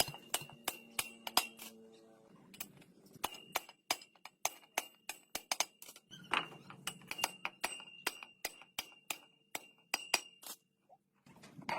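Light metallic tapping and clinking, about three sharp ticks a second with a faint high ring behind them, pausing briefly twice.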